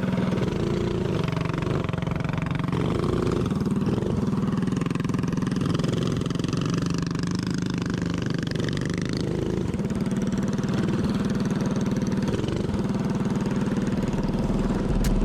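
Mini bike's small engine running at a fairly steady pitch and level.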